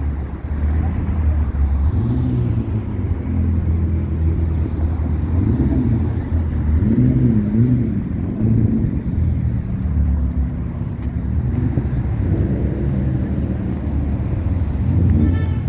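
Car engine running, its pitch rising and falling several times over a steady low rumble.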